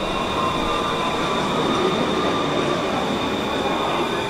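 Train running along the station platform: a steady rumble of wheels on rails with a high, steady whine.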